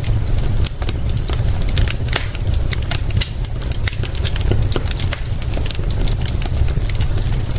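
Wood fire crackling, with many sharp irregular pops, over a steady deep rumble.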